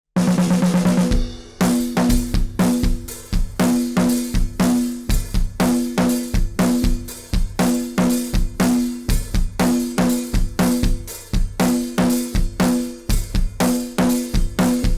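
Drum kit, kick and snare, played in a steady fast pattern through a 500-series preamp with its input gain fully up and output turned down, driving it into saturation for distortion on the transients. The first hit rings on for about a second before the beat starts.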